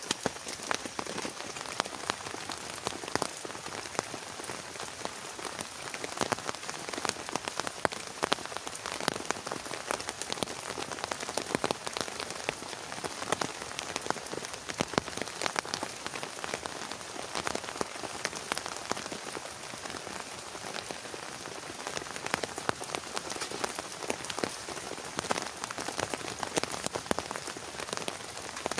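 Heavy rain falling steadily. It makes a dense, even hiss full of countless small drop impacts striking a surface close by.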